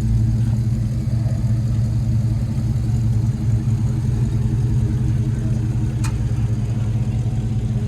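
A car engine idling steadily, with a single short click about six seconds in.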